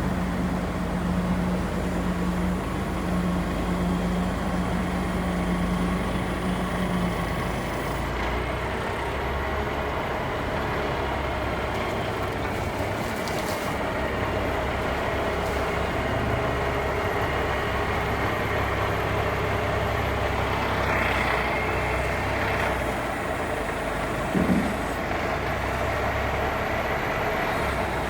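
Cummins 350 diesel engine of a 1980 International crane truck running steadily. A steady low tone over the engine ends about seven seconds in.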